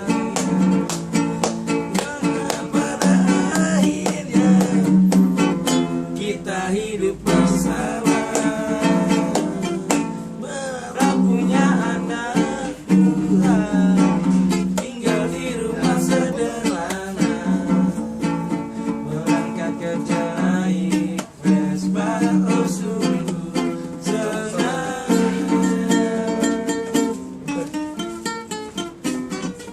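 Acoustic guitar strummed, with a voice singing a song along with it.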